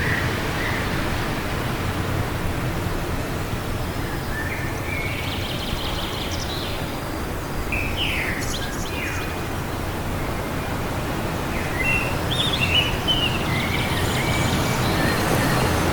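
Steady wind noise with small birds chirping over it: a few short calls around the middle and another cluster near the end.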